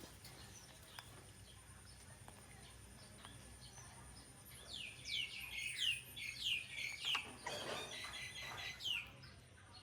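A baby monkey giving a run of high-pitched squeals that each fall in pitch, about two a second, starting about halfway through and stopping shortly before the end.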